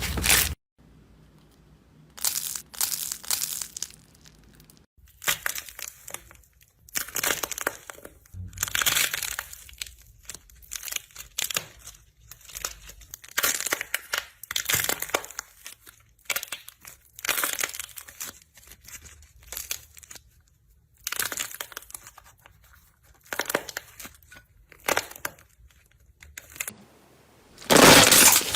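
Slime being squeezed and pressed by hand, giving repeated crackling, crinkling noises in short bursts with brief quiet gaps between them.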